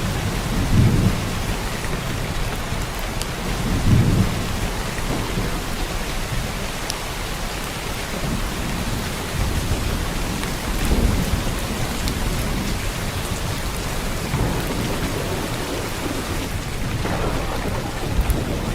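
Heavy downpour of rain, a steady hiss, with several short low rumbles rising out of it: about a second in, near four seconds, around eleven seconds and near the end.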